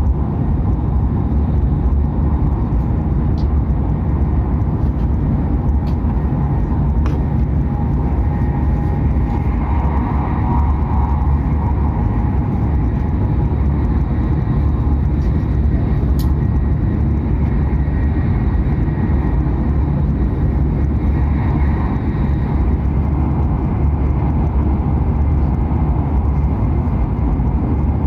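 Hokuriku Shinkansen train running at speed, a steady deep rumble of wheels and running gear, as heard inside the passenger cabin, with a few faint clicks.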